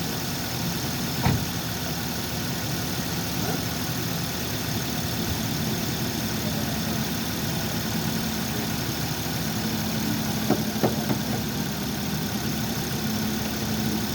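Suzuki Swift car engine idling steadily, with a sharp click about a second in and two more in quick succession about ten seconds in.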